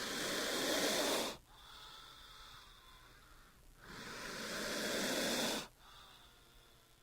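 King cobra hissing twice, each hiss about two seconds long, swelling and then stopping abruptly.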